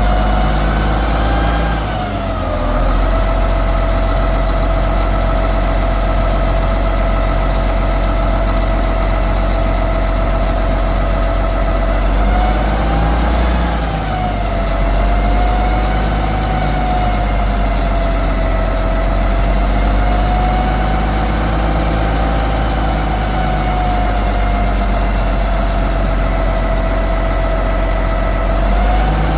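Heavy Mack diesel truck engine idling steadily, with a whine that drifts slightly up and down in pitch.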